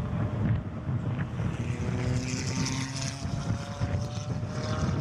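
Supercar engine running hard under acceleration, its pitch climbing slowly.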